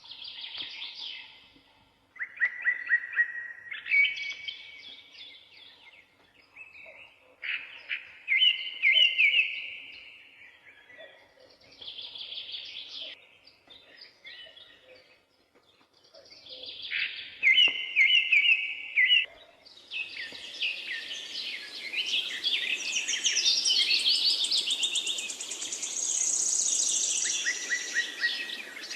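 Several songbirds singing in turn, with quick trilled and chirped phrases a second or two long. About two-thirds in, a steady rushing hiss starts, and the singing becomes denser and higher-pitched.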